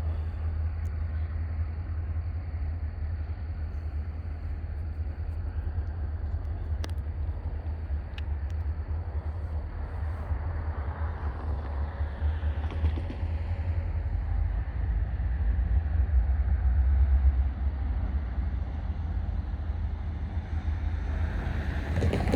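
Low, steady rumble of diesel switching locomotives running in the yard, growing a little louder past the middle.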